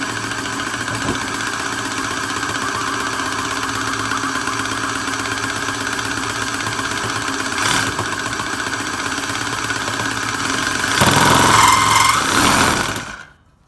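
Handheld power cutting tool running at slow speed, cutting through a car's plastic side skirt with a steady machine whine. It grows louder and rougher about eleven seconds in, then cuts off suddenly just before the end.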